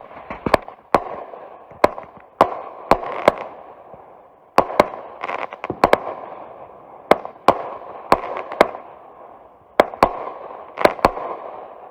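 TNT 'Lab Rat' 23-shot consumer firework cake firing: about twenty sharp bangs from shells bursting, at irregular spacing and often in quick pairs, with a hissing spray of noise between them.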